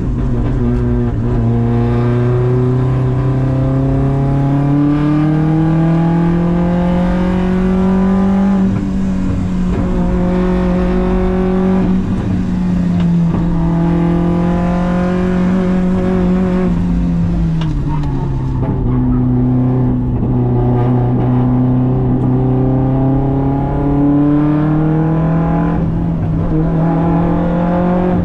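Audi quattro hillclimb race car's engine heard from inside the cockpit under hard acceleration, its pitch climbing steadily, dropping off about a third of the way in and again a little past halfway as the driver lifts and shifts for the bends, then climbing again.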